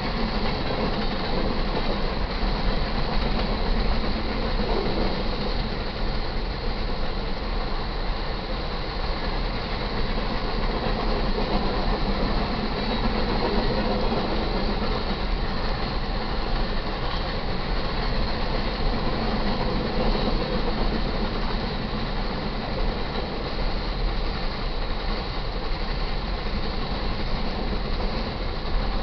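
Fast BNSF coal train's cars rolling past at speed: a steady, loud rumble of steel wheels on rail that does not let up.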